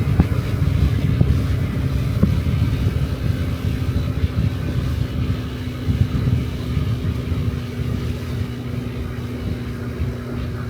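Honda Dio Cesta AF68 50cc scooter's single-cylinder four-stroke engine running steadily while riding, with wind rumble on the microphone.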